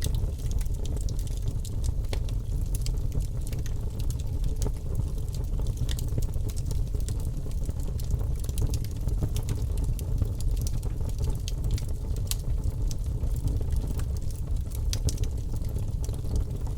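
Logs burning in a wood fireplace: a steady low rumble of flames with frequent sharp crackles and pops throughout.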